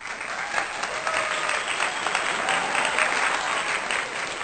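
Crowd applause with a few cheering voices, starting abruptly at full loudness: a dense clapping sound effect laid over the video.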